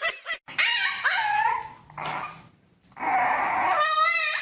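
A pet animal crying out with pitched calls: a first cry of about a second, then a longer cry whose pitch wavers near the end.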